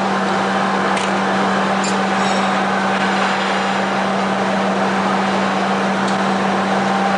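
Steady running noise of induction-hardening machinery on a plier production line: a constant low hum and a steady higher tone over a continuous mechanical hiss, with a few light clicks.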